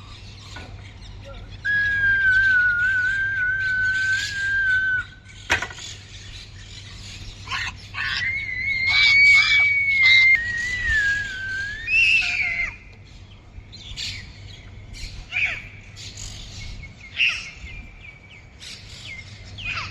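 Long whistled notes: one held steady for about three seconds, then a higher, wavering one for about two seconds, followed by a few short chirps.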